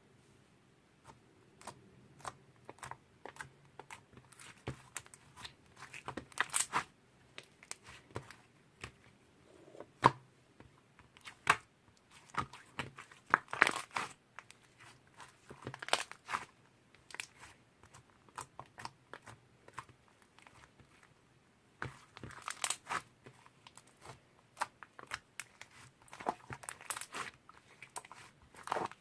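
Hands squishing and stretching a sticky honey slime, giving irregular wet clicks, crackles and pops in bursts, with a brief lull about two-thirds of the way through.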